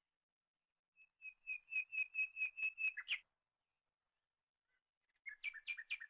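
A bird calling: a rapid series of about nine clear, evenly pitched whistled notes, about four a second, then a shorter series of about five notes near the end.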